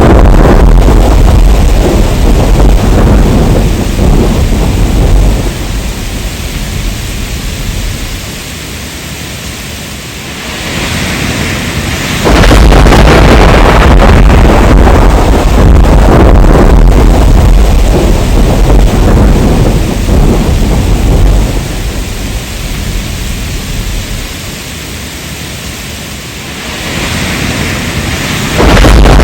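Heavy rain with thunder. A loud, deep rumble of thunder starts suddenly about twelve seconds in and slowly dies away to steady rain hiss, then a second rumble breaks in just as it ends.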